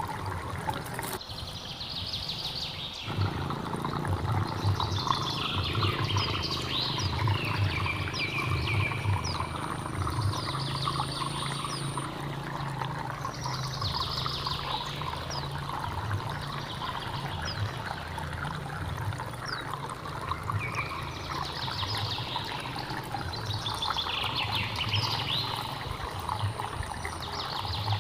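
Hill stream water running steadily, with birds singing short chirping phrases every few seconds over it. A faint, high, steady whine is heard twice, near the middle and near the end.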